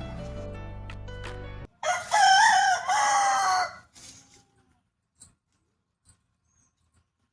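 Background music that stops abruptly about one and a half seconds in, followed by a rooster crowing once, loud and wavering, for about two seconds; then it goes nearly quiet apart from a few faint ticks.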